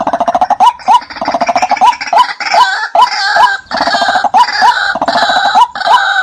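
Watercock calling: short rising notes repeating about twice a second over a dense, fast run of pulsing notes.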